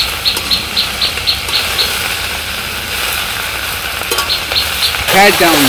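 Taro greens with a hilsa fish head frying in an iron wok, a steady sizzle as they are stirred with a metal spatula. Two quick runs of short high ticks, about four a second, sound over it, the first near the start and the second about four seconds in.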